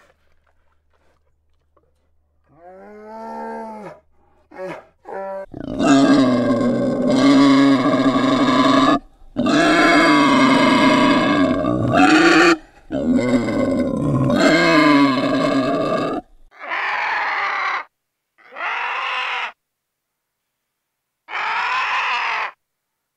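Wild boar giving a run of long, loud squealing grunts, each lasting one to three seconds. They are followed by a few shorter separate calls of about a second each.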